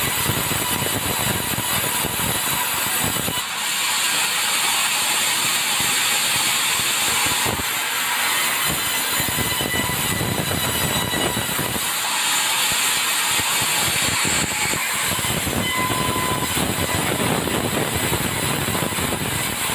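Sawmill saw running and cutting timber, a loud, steady mechanical noise. Its sound shifts between a heavier low tone and a higher hiss every three to four seconds.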